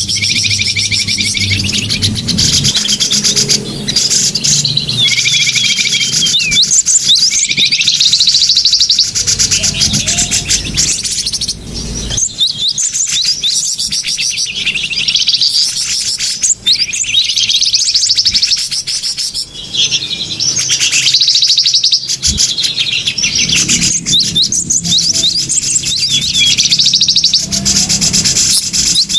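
Many small birds chirping and trilling over one another, with rapid buzzy trills and quick sweeping chirps. This is a bird-lure recording (suara pikat), played to draw small birds in.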